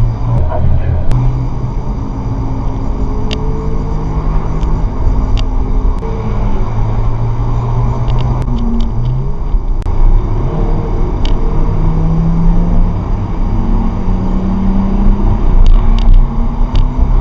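A car driving at road speed, heard from inside the cabin: steady road and tyre rumble under an engine note that slowly rises and falls in pitch as the speed changes, with a few light scattered clicks.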